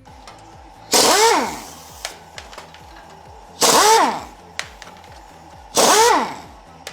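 Three short bursts from a pneumatic air tool loosening chassis bolts, each a loud hiss with a whine falling in pitch, over background music with a steady beat.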